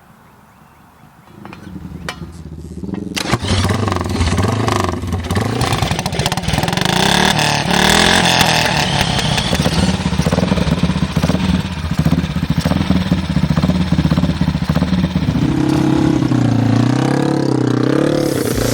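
Vintage racing motorcycle engines rising out of quiet about a second in, then running loud with revs climbing and dropping, several engines overlapping.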